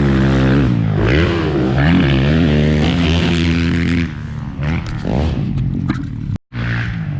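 Motocross dirt bike engine revving up and down as it is ridden round the track, its pitch rising and falling with the throttle and gear changes. It is loudest for the first four seconds, then fainter, and cuts out briefly near the end.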